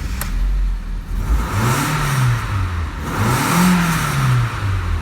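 Audi A4 B5's 1.8-litre ADR four-cylinder petrol engine running and revved twice, each time rising in pitch and falling back to idle.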